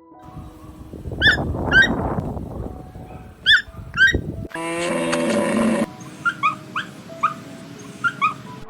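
Puppy yelping and whimpering: two pairs of short high yips, a longer cry about five seconds in, then a run of softer, quicker yips.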